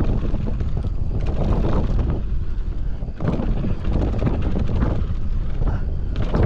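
Mountain bike descending a dirt trail: wind rushing over the microphone and tyres rumbling on the ground, with repeated knocks and clatter as the bike hits bumps and rocks.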